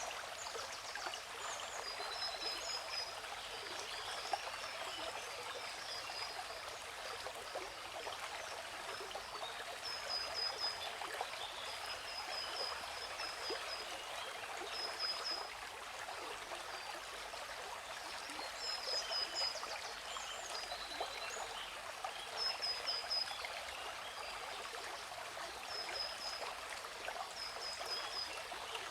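Steady rush of a waterfall's falling water, with a bird calling over it every few seconds in short runs of high, quick chirps.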